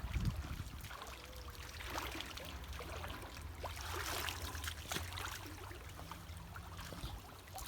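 Shallow creek water splashing and trickling as people wade through it, with scattered small knocks.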